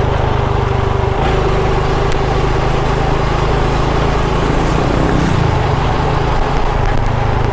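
Small motorbike engine running steadily while riding, with wind and road noise; the engine note shifts about a second in.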